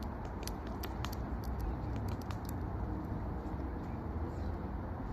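A run of irregular light clicks or taps, most of them in the first two and a half seconds, over a steady low outdoor rumble.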